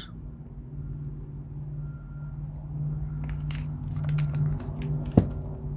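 Light clicks and knocks of small cardboard firework cakes being handled, with one sharper knock near the end, over a steady low hum.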